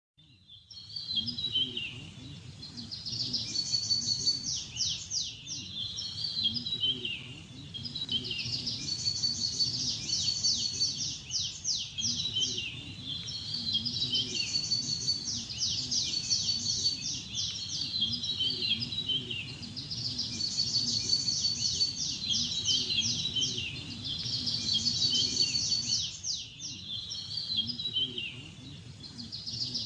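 Bird song: a high trilled phrase with a held whistled note, repeated the same way about every five to six seconds, over faint background noise.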